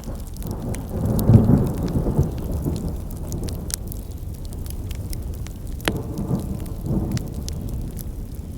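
Wood campfire crackling, with scattered sharp pops over a steady low rumble that swells loudly about a second in and again near seven seconds.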